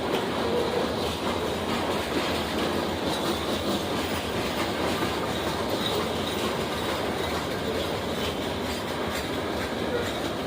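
A train rolling by on the track: a steady rumble of wheels on rail with faint repeated clicks.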